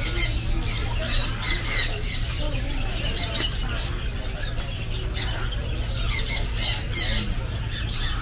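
Birds chirping and squawking over and over, over a steady low hum.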